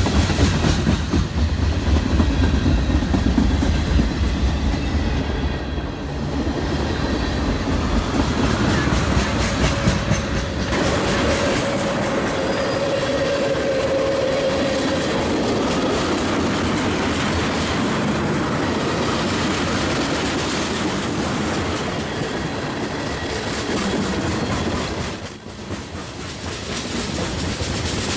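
Freight train cars rolling past, their wheels clattering steadily over the rail joints, with a thin wheel squeal near the middle.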